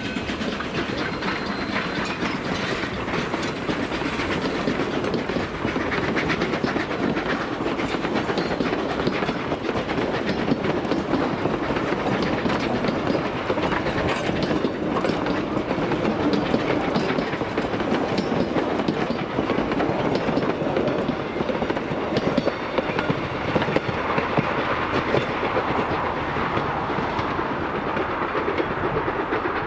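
Durango & Silverton narrow-gauge train rolling along the track: a steady, dense clicking of wheels over the rails.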